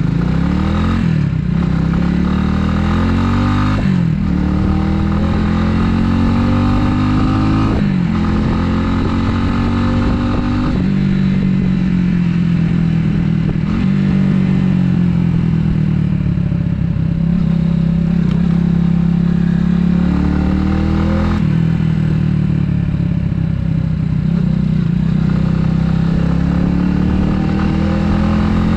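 Italika 250Z motorcycle engine pulling through the gears. Its pitch climbs and then drops sharply at each upshift, four times in the first eleven seconds. After that it cruises with the revs slowly rising and falling, with one more shift about two thirds of the way through.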